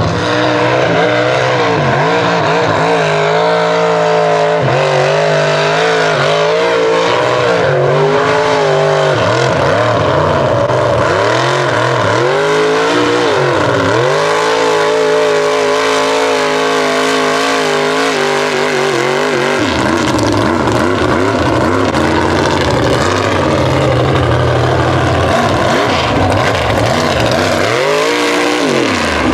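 Mud bog truck's engine running at high revs, its pitch rising and falling again and again as the throttle is worked, loud throughout.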